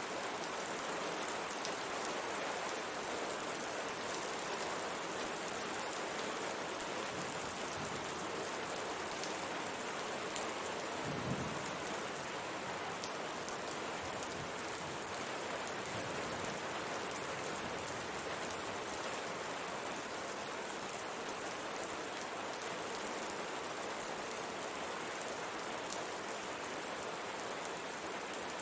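Steady rain hissing, with raindrops pattering on a window pane. A single brief low thump sounds about eleven seconds in.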